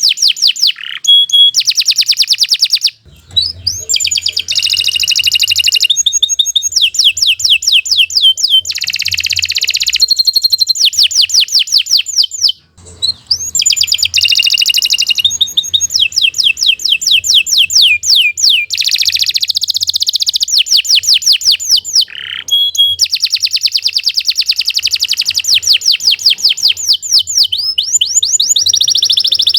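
Domestic canary singing a long, loud song of fast trills and rolls, broken by two short pauses.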